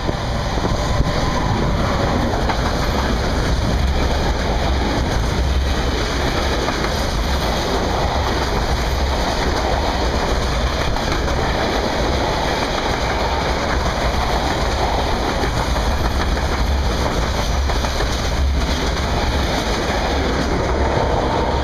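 Electric-hauled freight train of steel open gondola wagons rolling past at close range: a steady, loud rumble of wheels on the rails that holds unbroken as wagon after wagon goes by.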